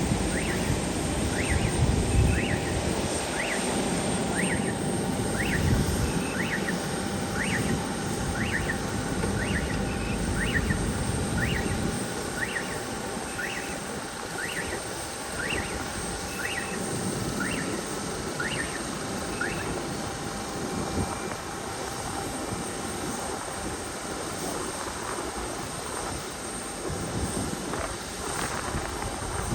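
Aircraft engine rumble from a plane at the airport, heaviest for about the first twelve seconds and then easing to a lower steady noise. Short, evenly spaced chirps repeat about once a second over the first two-thirds.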